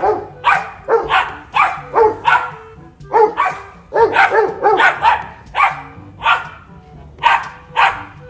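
A dog barking over and over, a bark about every half second, with short pauses between runs of barks.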